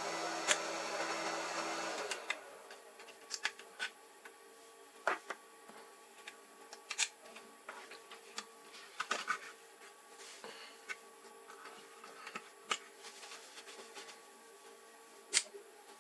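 A steady whirring blower or small motor cuts off about two seconds in. Light, scattered clicks and taps follow.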